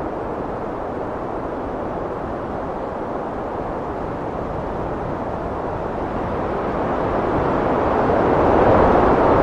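Heavy wind blowing in a steady low rush that swells louder in a gust over the last few seconds.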